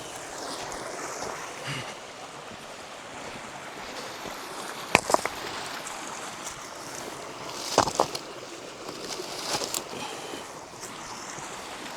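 Stream water flowing steadily, with two sharp knocks of rock on rock as stones are set in place, about five and about eight seconds in.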